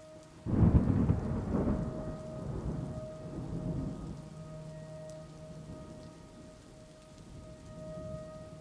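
A thunderclap breaks about half a second in and rolls away over the next few seconds, over steady rain. Under it a faint low steady drone holds.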